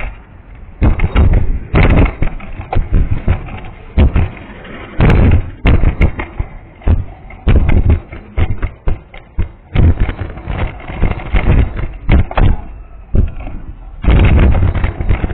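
Irregular loud thumps with rumbling between them from a vehicle running on a punctured tyre: the abnormal noise of the puncture, partly buried in wind buffeting on the microphone.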